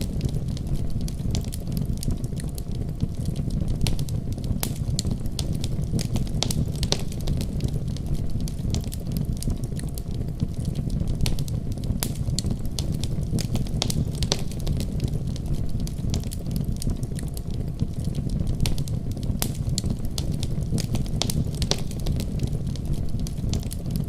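Wood fire in a fireplace crackling, with frequent sharp snaps and pops at irregular intervals, over a steady deep rumble of a storm.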